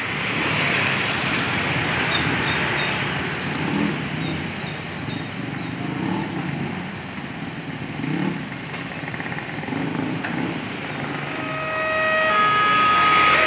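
Road traffic of motorcycles and cars idling and passing at a railway level crossing, engine hum rising and falling. About twelve seconds in, a steady multi-pitched warning tone starts, typical of the crossing alarm signalling an approaching train.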